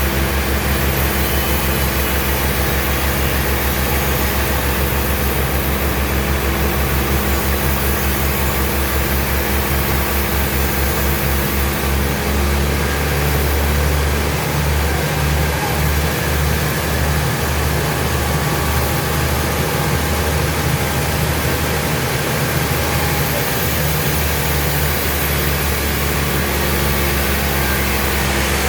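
Heavy sawmill machinery running steadily, a loud machine drone whose low pulsing hum shifts about halfway through.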